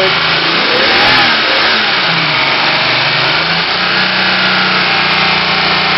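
Car engine running at idle, its pitch shifting up and down a little a few times.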